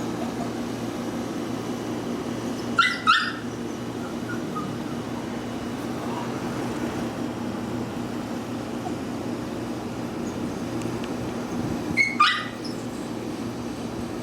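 A dog barks twice, about nine seconds apart, over a steady low hum.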